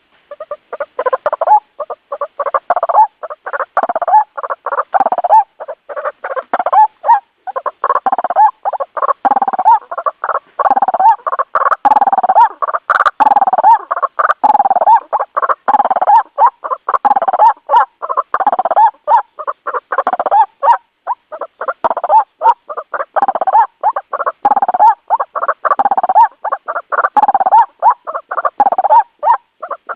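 White-breasted waterhen (ruak-ruak) calling: a loud, unbroken run of short repeated calls, several a second, from a bird-trapping lure recording.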